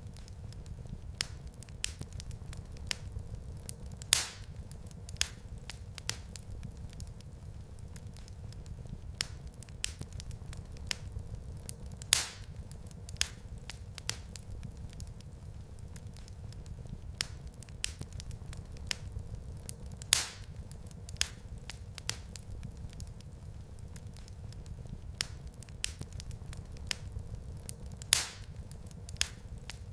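Wood fire crackling in a fireplace: a steady low rumble of the flames with scattered sharp crackles, and a few louder pops standing out now and then.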